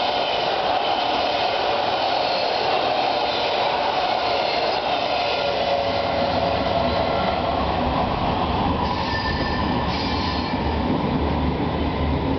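Helsinki metro train running at the station platform, a loud steady rumble with a tone that drifts slowly downward through the first half. Brief high squeals come about two-thirds of the way through, while the low rumble grows.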